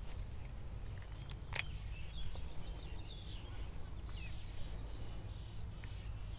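Birds chirping now and then over a steady low outdoor rumble, with one sharp click about one and a half seconds in.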